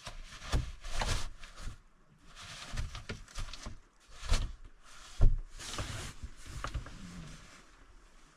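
Irregular rustling swishes, roughly one a second, several with soft knocks under them, like fabric or bedding being moved about in a small space; the loudest knock comes a little past the middle.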